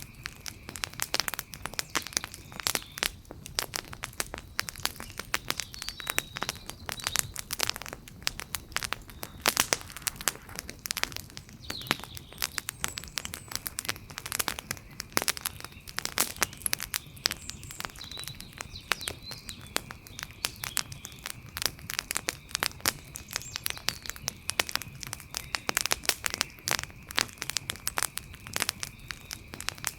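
Wood fire crackling, with dense, irregular pops and snaps throughout over a low hiss. Faint high chirps come and go in the background.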